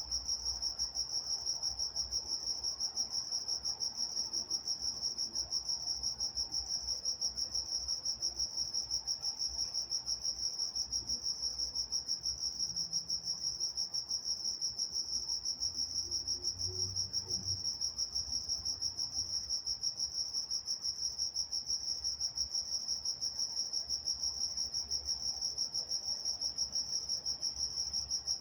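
Field crickets chirping at night in a steady, evenly pulsed high-pitched chorus.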